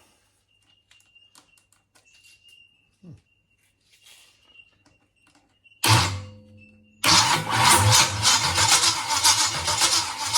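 Freshly built 350 Chevrolet small-block V8 making its first start: after several seconds of near quiet with faint clicks, it fires in a sudden burst about six seconds in that dies away, then catches a second later and keeps running, loud and rough. The owner judges the ignition timing a little too far advanced.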